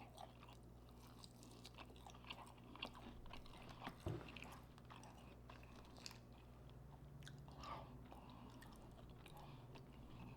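Faint close-up chewing: soft wet mouth clicks and bites as a person eats, with a slightly louder click about four seconds in.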